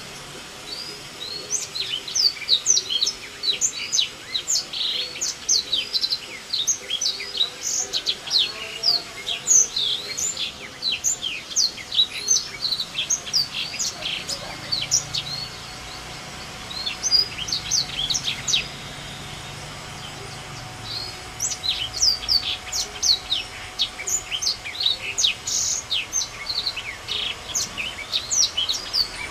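A small songbird, the kind Indonesian bird keepers call 'botswana', sings a fast run of sharp, high chirps and quick whistled notes. It breaks off briefly about two-thirds of the way through, then starts again.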